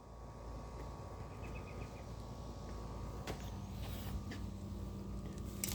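A steady machine hum with a thin high tone running through it, and a few faint clicks and ticks.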